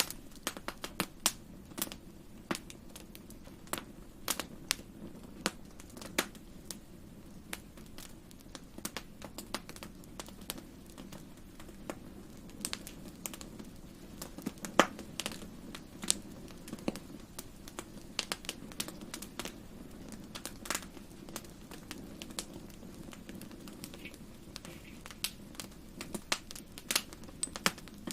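Wood fire crackling in a fireplace: irregular sharp pops and snaps, a few much louder than the rest, over a soft steady low rumble of the flames.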